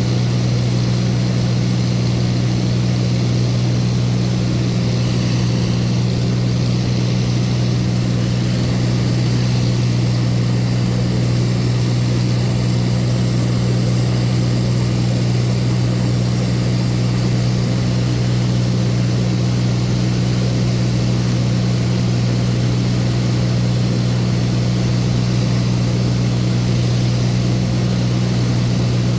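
Steady drone of a light propeller aircraft's engine and propeller, heard from inside the cabin, with an even low hum.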